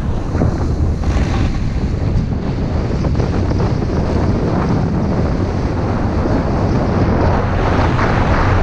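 Wind buffeting the microphone: a steady, loud rushing noise, heaviest in the low end, as from a camera moving fast through the air on a ski descent.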